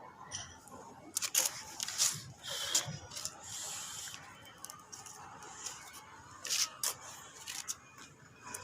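Scattered sharp clicks, scrapes and rustles of objects being handled, with a brief hiss about three and a half seconds in.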